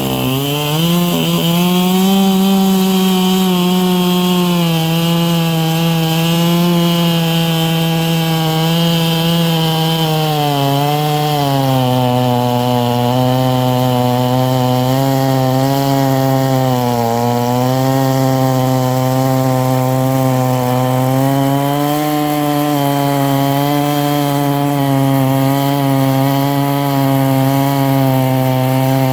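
Stihl 440/046 chainsaw with a ported cylinder and tuned exhaust, revving up in the first second and then running at full throttle while cutting wood. Its pitch sags and recovers several times under the load of the cut, running lower through the second half.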